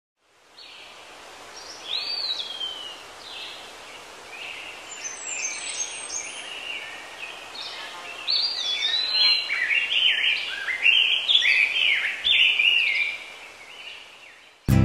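Small birds chirping and singing over a steady outdoor hiss, scattered calls at first and many overlapping calls from about eight seconds in. Acoustic guitar music cuts in suddenly at the very end.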